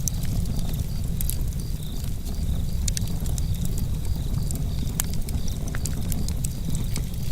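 Campfire crackling: irregular sharp pops and snaps from the burning wood over a steady low rumble of the fire.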